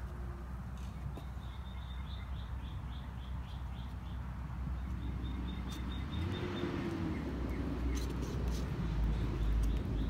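A songbird calling in a steady series of short high chirps, about four a second, which stops about two-thirds of the way through. Under it runs a steady low outdoor rumble that swells in the second half.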